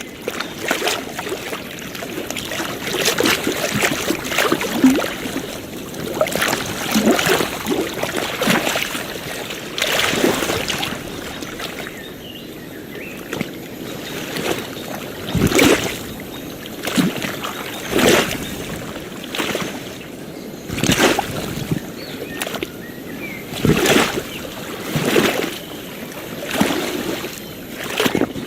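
Gentle waves lapping and sloshing, with a short splash about every second or so over a steady wash of water.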